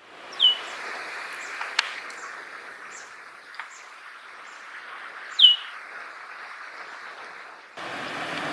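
Male common linnet calling: two loud calls, each sliding quickly down in pitch to a brief held note, about five seconds apart, with fainter chirps between. A steady background hiss runs underneath and steps up suddenly near the end.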